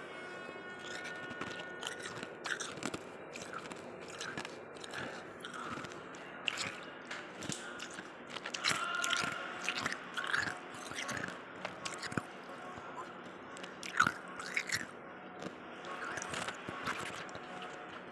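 A person biting and chewing ice, with irregular crunching and cracking throughout and one especially sharp crack about fourteen seconds in.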